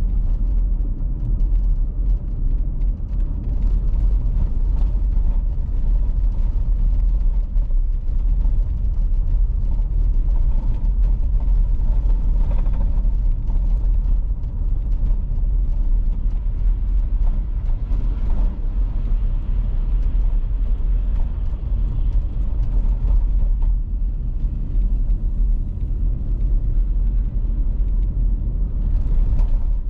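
Car driving on an icy road: a steady low rumble of engine and tyre noise.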